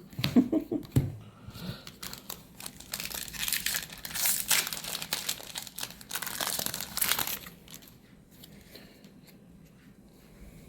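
Foil booster-pack wrapper being crinkled and torn open, a dense crackling with many small clicks for several seconds, then only faint light handling near the end.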